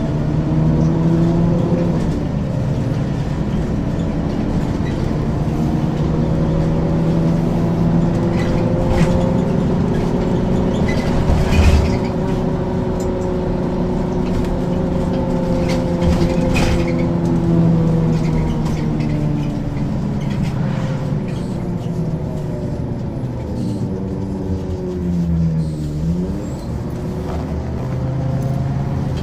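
Ikarus 435 articulated bus's diesel engine pulling at steady speed under load, its pitch falling in the second half as the bus slows. About 26 s in, the engine pitch dips sharply and comes back up, with a few short knocks earlier on.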